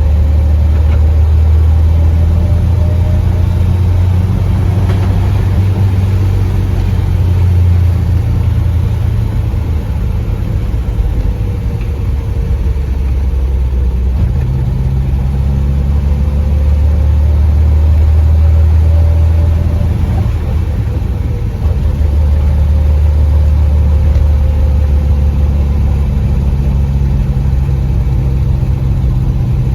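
Triumph Spitfire 1300's four-cylinder engine running as the car is driven, its note shifting up and down in pitch a few times as the revs change, with a brief dip in loudness about two-thirds of the way through.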